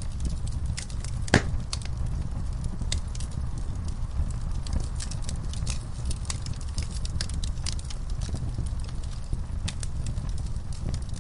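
Wood fire in a fire pit crackling and popping, burning logs and coals giving off irregular sharp snaps over a steady low rumble, with one loud pop about a second and a half in.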